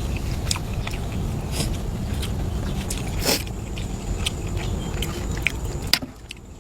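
Someone eating: chewing and biting food, with scattered small crunches and clicks and one louder crunch a few seconds in, over a steady low background noise.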